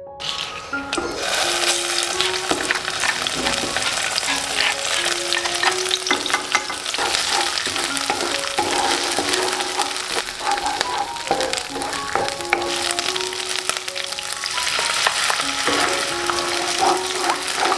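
Ground spice paste of garlic, shallots and turmeric frying in hot oil in a nonstick wok, sizzling and crackling as it is stirred with a wooden spatula; the sizzle begins suddenly at the start. Soft piano music plays underneath.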